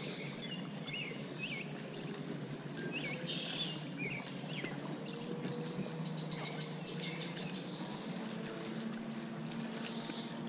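Small birds chirping in short, repeated calls, thickest in the first few seconds, over a steady low background rush. A faint low hum comes in about halfway through.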